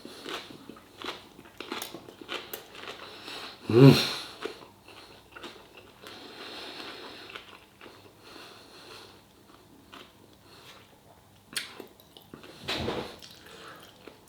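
A person biting into and chewing a mouthful of chicken fajita wrap, with many small crunches and wet mouth noises. About four seconds in, a short, loud voiced hum from the eater stands out, and there is another near the end.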